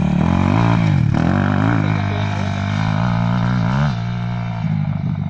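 XMotos 250 motorcycle engine being revved in repeated short blips, its pitch rising and falling several times. About four seconds in it settles to a steadier, slightly quieter idle.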